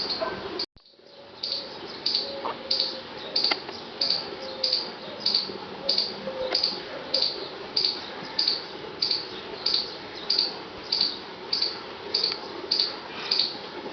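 Squirrel squeaking: a high-pitched call repeated steadily and rhythmically, about three calls every two seconds.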